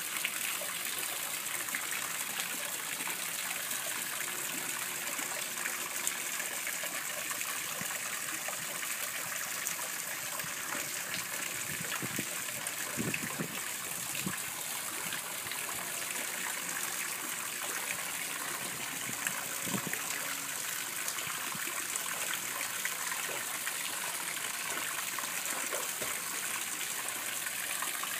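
Steady running and trickling water in a koi pond, with a few brief splashes about halfway through and again a little later.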